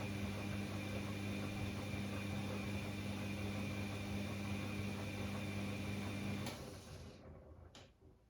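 Bosch Classixx 6 washing machine running its drum with a steady mechanical hum in the hot main wash. About six and a half seconds in it switches off with a click and the sound dies away within a second; a single faint tick follows.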